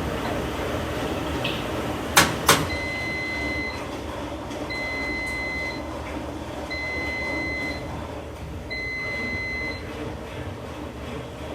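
Two sharp clicks, then a washing machine's electronic signal: four long, steady beeps, each about a second long and starting two seconds apart, over a steady machine hum.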